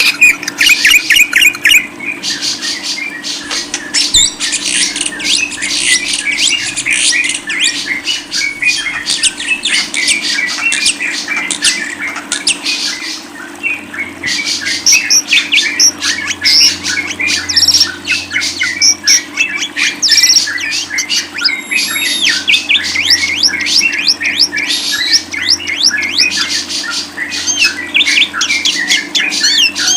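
A cage bird chattering without pause: a rapid, continuous run of high chirps and squawks, over a steady low hum.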